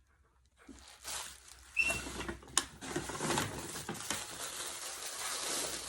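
Crinkling and rustling of plastic packaging being handled, with small clicks, and a single short high chirp about two seconds in.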